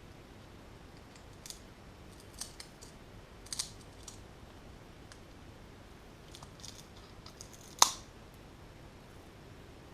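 Small clicks and taps from handling a Sony Reader PRS-505 e-reader's parts during a battery change, scattered over several seconds, with one sharp click near the end.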